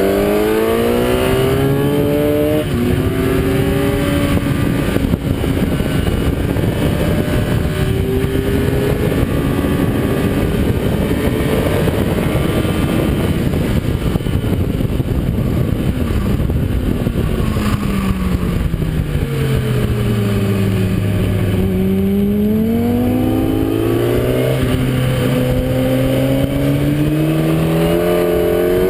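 Kawasaki ZX-10R inline-four engine under hard acceleration on track, climbing through the gears with quick upshifts. At high speed, wind rush covers the engine for several seconds. About two-thirds of the way through, the revs fall steadily as the bike slows, then climb through the gears again.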